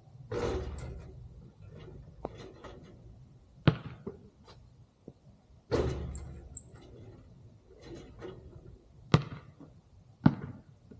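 Basketball impacts during jump-shot practice: a few sharp thuds of the ball, with two longer noisy hits of about a second each near the start and about halfway.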